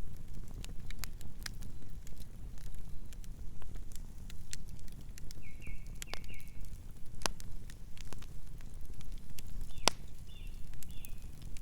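Campfire burning steadily, with frequent sharp crackles and pops over a low rumble of flames. Short high chirps come twice, about six seconds in and near ten seconds.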